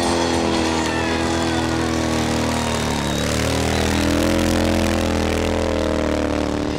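Motorcycle engine running, the revs easing down to a low about three seconds in, then building back up and holding.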